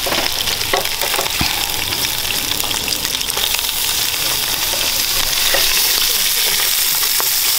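King crab legs, lobster tails and shrimp sizzling in hot sesame oil in a frying pan: a steady frying hiss, with a few light knocks as pieces go in and are stirred with a spatula.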